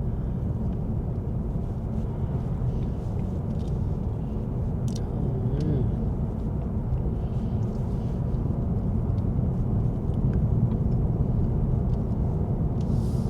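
A car being driven, with a steady low rumble of road and engine noise. A faint tick sounds about five seconds in, followed by a brief wavering tone.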